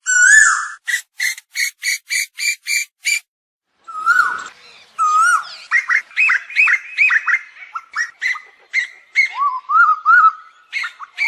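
Asian koel calls: a rising whistled note, then a fast even run of about eight short sharp notes. After a short pause comes a busier stretch of overlapping swooping calls, as of several birds calling at once.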